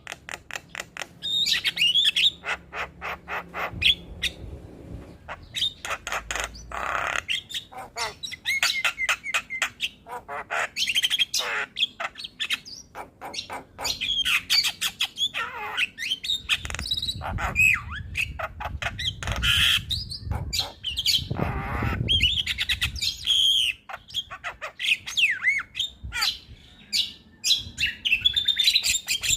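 Javan myna (jalak kebo) in full song: a continuous, fast chattering run of rapid clicks and rattles mixed with whistled gliding notes and a few harsh squawks.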